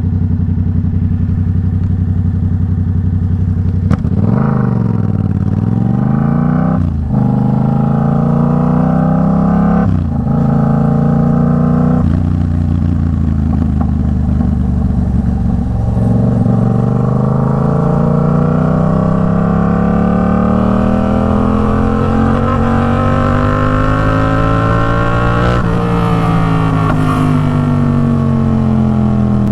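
Yamaha MT-07's 689 cc parallel-twin engine, fitted with an Arashi aftermarket exhaust, under way. The engine climbs in pitch through several quick gear changes, holds steady, then pulls in one long rising climb for about ten seconds before easing off near the end.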